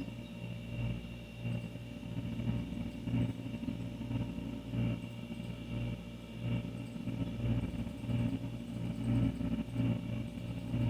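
An older refrigerator running: its compressor gives a steady low hum with a few higher overtones, rising and falling slightly in strength.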